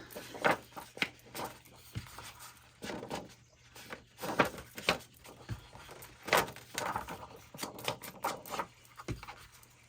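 Paper and cardstock being handled on a craft table: irregular light taps, clicks and short rustling slides.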